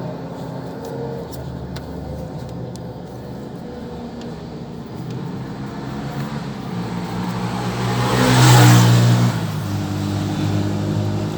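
Motor vehicle engines running steadily. One vehicle grows loud, peaking about eight and a half seconds in, then fades, like traffic passing close by.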